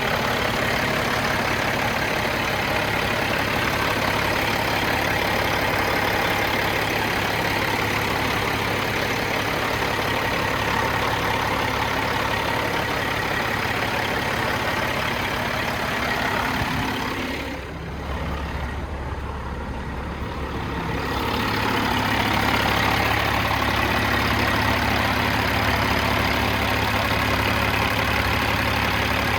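Diesel engine of a 2004 Peterbilt 379 truck tractor running steadily at idle, going quieter for a few seconds about two-thirds of the way through and then returning to its earlier level.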